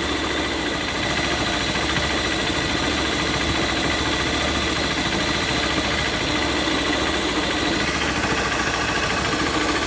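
Honda Bros single-cylinder engine idling with the clutch lever pulled in, running with a noise and strong vibration. It is a clutch-side fault that the mechanic takes for a worn bearing.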